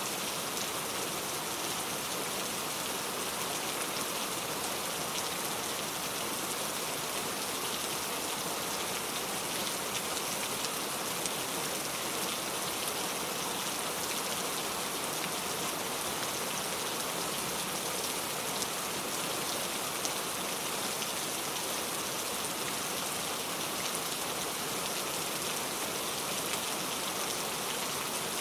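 Heavy rain falling steadily, a dense even hiss of drops with fine scattered patter on surfaces.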